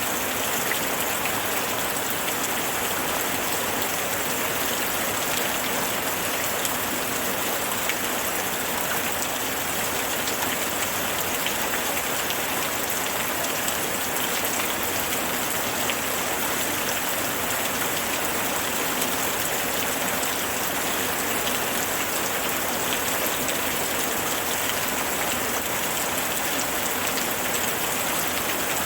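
Steady rainfall with dense pattering of drops on a surface.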